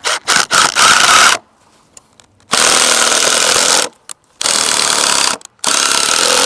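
Ryobi cordless power tool running in short stuttering bursts, then three longer runs of about a second each with brief pauses between.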